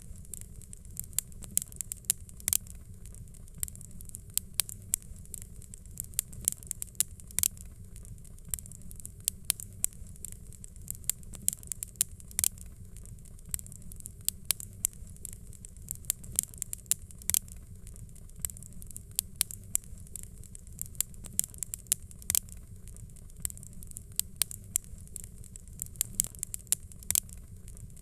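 Wood fire crackling in a fireplace: many irregular sharp pops and snaps, several a second, over a steady low rumble of the burning.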